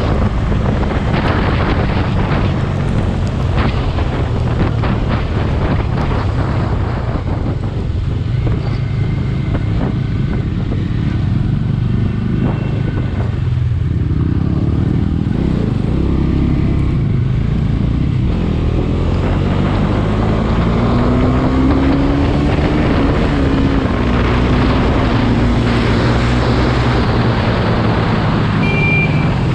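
Motorcycle riding on the road, its engine running steadily under wind buffeting the microphone. About twenty seconds in, the engine pitch rises as it revs up, then eases off.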